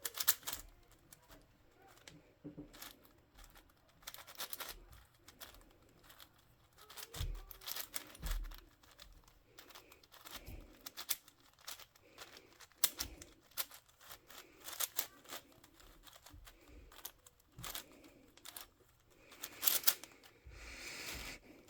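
Plastic twisty puzzle cube being turned by hand: irregular flurries of quick plastic clicks and clacks as the layers turn, with short pauses between runs of moves.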